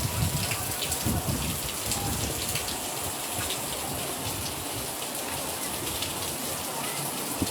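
Rain falling steadily, pattering on surfaces with scattered sharp drop ticks.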